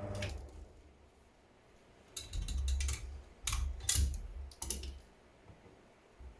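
A few sharp clicks and knocks, each with a low thud underneath, between about two and five seconds in, as of objects being handled and set down.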